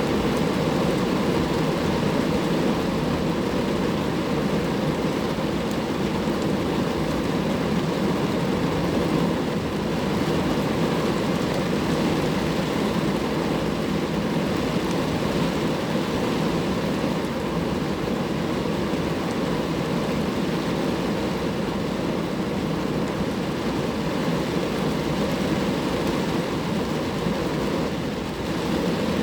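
Rain falling steadily on a car, an even, unbroken wash of noise.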